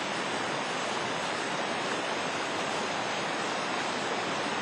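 Rushing water of a mountain river with waterfalls, a steady even rush.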